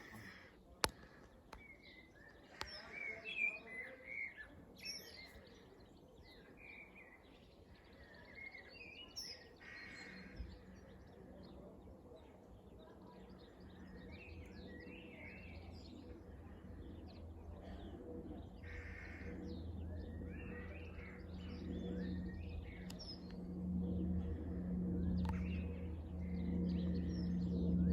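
Garden songbirds chirping and calling, with the low, steady drone of a high-flying Airbus A400M's four turboprop engines coming in about ten seconds in and growing steadily louder as it approaches.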